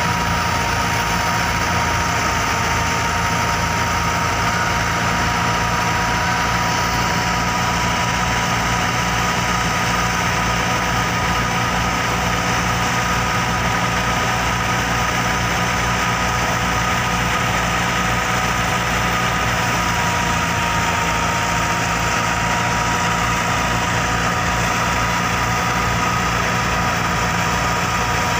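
Massey Ferguson 385 tractor's four-cylinder diesel engine running steadily at an unchanging speed, with an even low throb.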